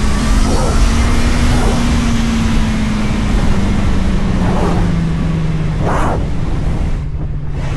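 A vehicle's engine running under way over steady road and wind noise, its single droning note drifting gradually lower as the revs ease off; a brief whoosh about six seconds in.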